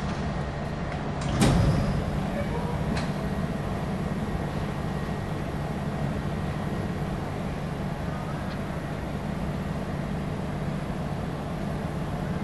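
Train at a station platform giving a steady low hum. A loud clunk comes about a second and a half in, followed by a fainter click a moment later.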